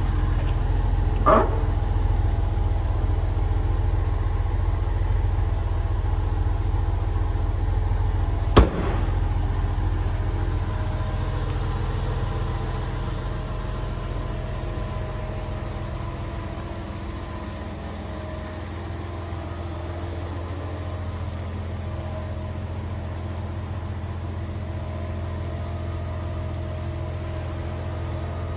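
1997 Porsche Boxster's 2.5-litre flat-six idling steadily soon after a cold start. It gets somewhat quieter about halfway through as the exhaust is left behind. A brief chirp comes about a second in and a single sharp click about a third of the way in.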